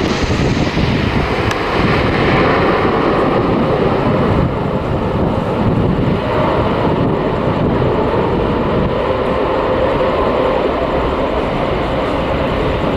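Boeing 777-200 airliner landing, its jet engines loud and steady, with a faint whine held through the noise.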